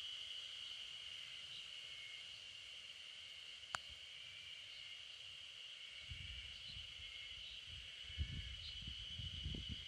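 A faint, steady high-pitched insect drone with a few faint scattered chirps over it. A single sharp click comes a little under four seconds in, and low rumbling sets in from about six seconds in.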